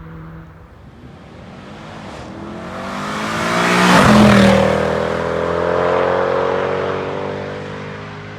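Mercedes-Benz C63 AMG's 6.2-litre V8 on its stock exhaust, driving past. The engine note grows louder up to the pass about four seconds in, drops in pitch as the car goes by, and fades as it moves away.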